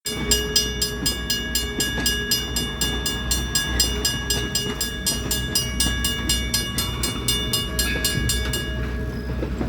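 Train's low engine rumble with a rapid, regular ringing of about four strokes a second, which stops near the end.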